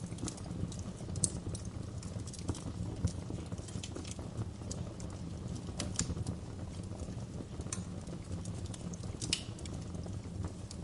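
Fire crackling in a fireplace: irregular sharp pops and snaps, a few louder ones, over a steady low rumble.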